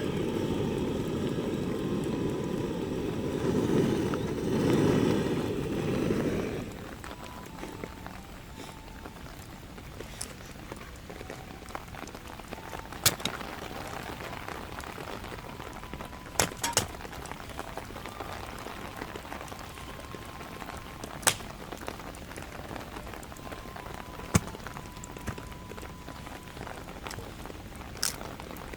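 Rain with a steady hiss and scattered sharp single drops. A louder rushing noise fills the first six seconds or so, then cuts off suddenly.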